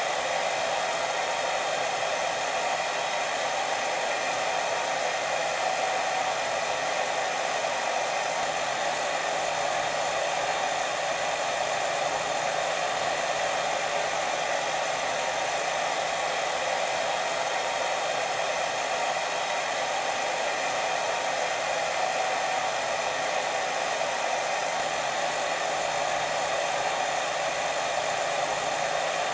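Steady, unbroken white noise, strongest in the low-middle range, with no pauses or changes.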